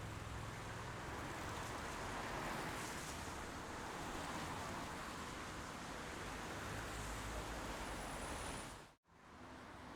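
Steady rain noise, an even hiss. It cuts out for an instant about nine seconds in and comes back a little quieter.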